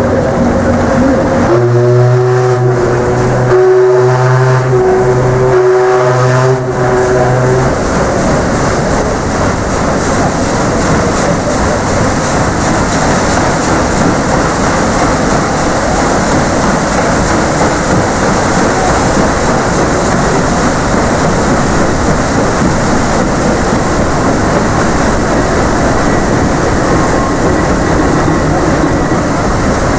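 Deep ship's whistle of the paddle steamer PS Waverley sounding three blasts of about two seconds each, followed by steady wind and sea noise.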